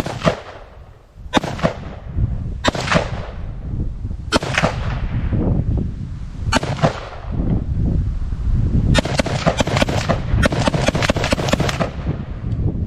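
AR-15 rifle firing: five single shots a second or two apart, then two fast strings of about half a dozen shots each near the end, each shot ringing out briefly.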